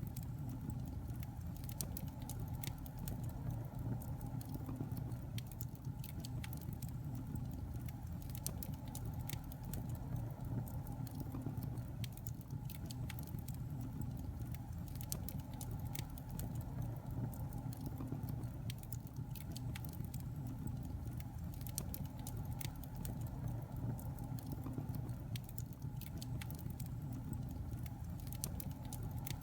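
Wood fire burning in a fireplace: a steady low rumble of flames with many irregular, sharp crackles and pops.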